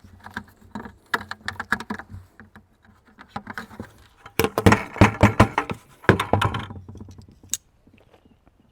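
Hard plastic of a 5-gallon bucket being scraped and clicked in quick, uneven runs as burrs are cleaned from its freshly drilled holes on the inside, loudest in two clusters past the middle and dying away near the end.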